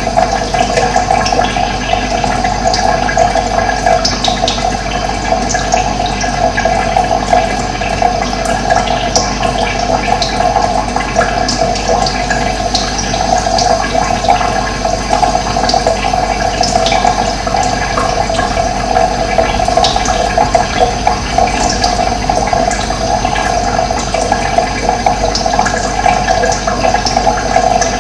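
Running water rushing steadily, with small birds chirping briefly and often over it.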